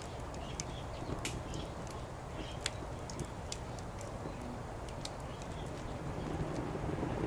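Wood fire crackling, with scattered sharp pops and snaps over a steady low background hiss; a low rumble builds near the end.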